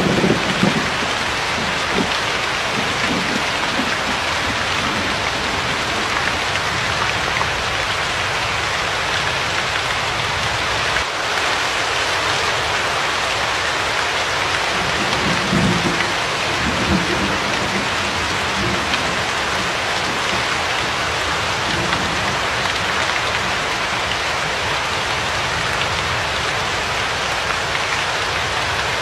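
Steady heavy rain, an even hiss of rainfall, with thunder rumbling low in the background: a rumble fading just at the start and another about halfway through.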